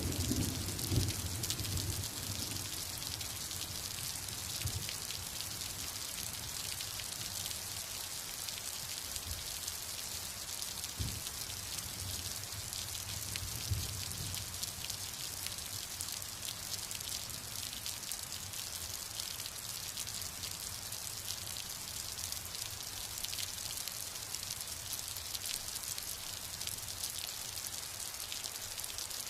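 Steady rain falling, an even hiss, with the tail of a low thunder rumble fading out in the first couple of seconds and a couple of faint low thuds near the middle.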